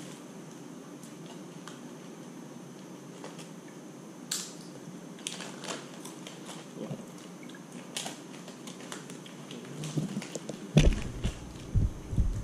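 Scattered crisp crunches of someone chewing crunchy fried food over a steady low hiss. Near the end, loud bumps and rubbing as hands grab the camera.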